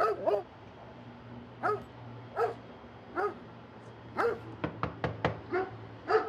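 A dog barking repeatedly: about a dozen short barks at uneven intervals, coming faster in a quick run in the second half.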